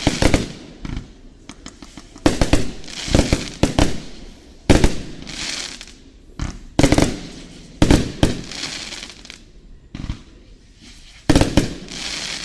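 Aerial fireworks shells bursting one after another in a close-range binaural recording: about nine sharp booms, each followed by a hissing tail.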